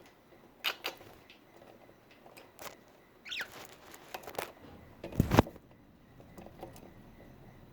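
A budgerigar gives one short chirp that slides downward, about three seconds in, among scattered light clicks and taps. About five seconds in comes a louder dull thump.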